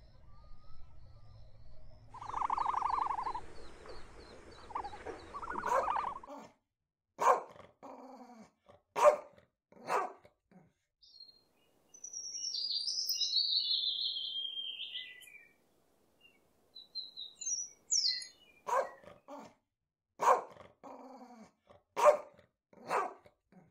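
A blue-winged kookaburra gives a high, falling chattering call lasting a few seconds. Later a dog barks repeatedly, about once a second, for several seconds near the end.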